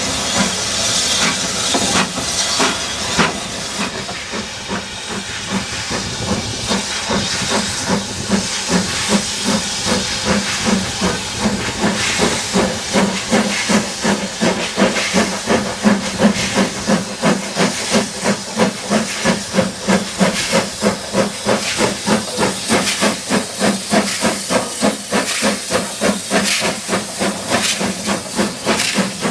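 Steam locomotive working under steam, hissing at first, then giving a steady run of rhythmic exhaust beats that grow stronger and pick up pace a little.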